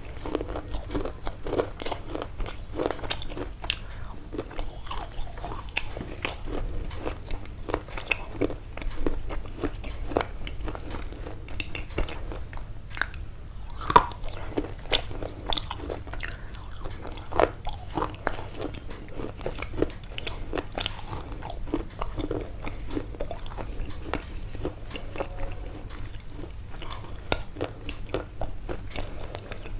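Close-miked crunching and chewing: irregular short, crisp crunches about one or two a second, over a steady low hum.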